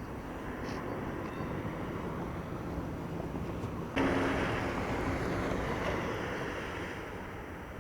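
Road traffic noise: a steady rush of passing vehicles. About four seconds in it suddenly gets louder, with an engine's low hum, then fades slowly.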